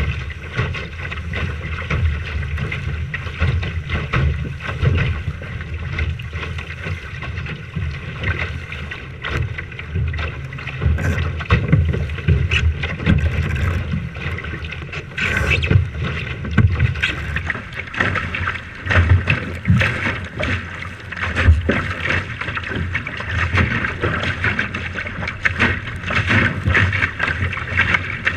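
Wind buffeting the microphone in gusts, over a steady rush of water and wind around a sailing boat.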